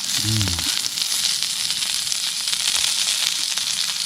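Meat sizzling and spitting steadily on a hot iron griddle, with a brief low murmur about a third of a second in.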